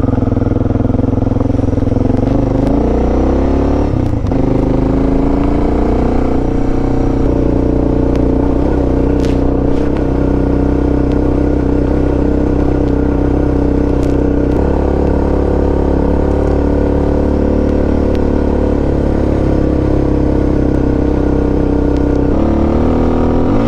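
Suzuki DR650's single-cylinder engine under way: its pitch climbs through the gears in the first few seconds, then holds steady at cruising speed, with another gear change near the end.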